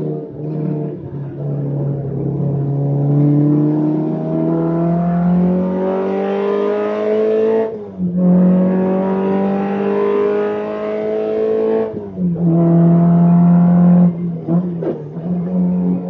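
Alfa Romeo Alfetta GTV's twin-cam four-cylinder engine at racing speed: the revs climb for several seconds, drop sharply at an upshift about eight seconds in, climb again and drop at a second upshift about twelve seconds in, then hold steadier with a couple of brief dips near the end.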